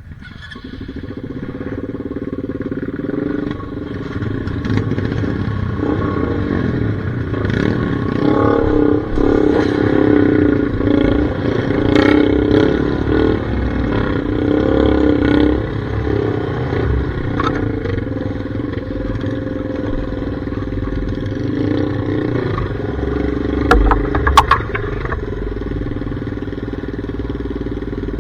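Dirt bike engine running while riding a trail, building up over the first couple of seconds and working hardest in the middle stretch. A few sharp knocks or clatters about three-quarters of the way through are the loudest moment.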